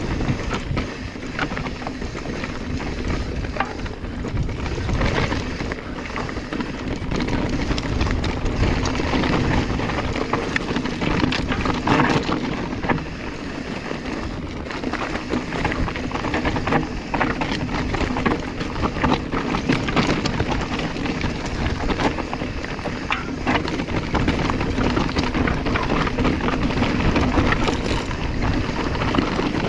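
Mountain bike descending a steep, loose dirt trail: wind buffets the chest-mounted microphone while the tyres scrabble over loose rock, with many sharp knocks and rattles from the bike over the bumps.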